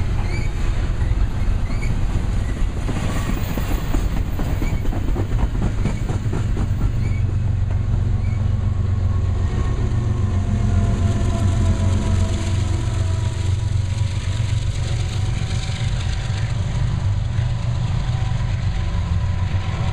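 Double-stack container well cars rolling past, their wheels clicking over the rail joints, with a steady low diesel drone that grows in the second half as the train's two GE Evolution-series distributed-power locomotives at the rear go by and move away.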